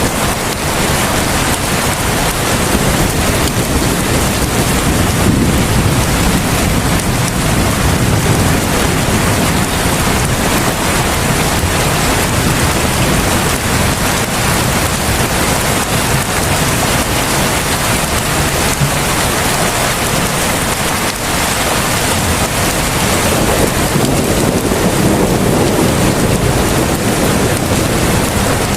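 Heavy rain falling in a steady, dense hiss, with the low end swelling slightly twice, around five seconds in and again near the end.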